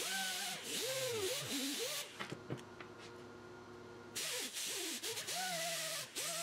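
Aerosol cleaner sprayed onto a car distributor in two long hissing bursts, the second starting about four seconds in, with wavering rising-and-falling tones sounding during the spraying.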